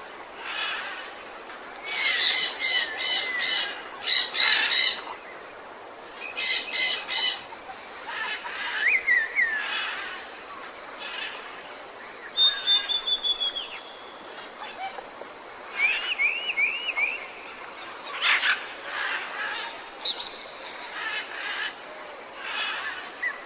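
Wild birds calling: bursts of rapid, repeated high notes and scattered chirps and short whistles, with several calls overlapping.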